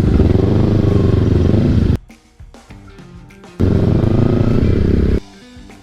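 Kawasaki Ninja 250 motorcycle's parallel-twin engine revving in two loud runs, each about a second and a half long, with a break of about a second and a half between them.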